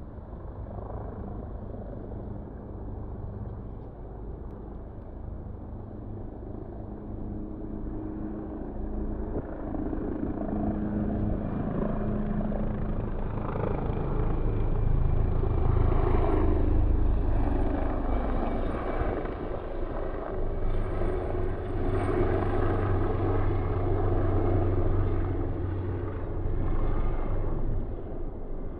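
Helicopter rotor and engine, growing louder over the first half as it draws near and loudest in the second half.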